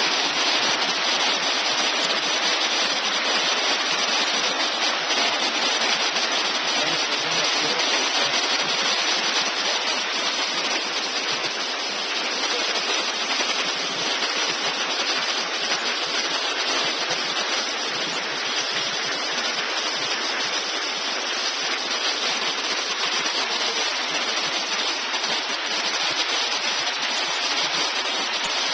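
Rain falling steadily: a loud, even hiss that does not change.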